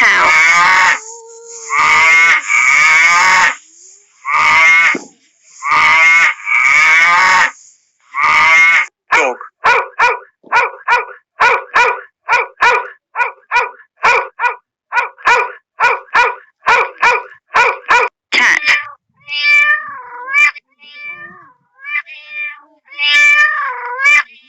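Recorded animal calls in three runs. First come long, harsh, noisy calls, then a fast, even series of short calls about two a second, and from about 19 seconds in, pitched calls that glide up and down.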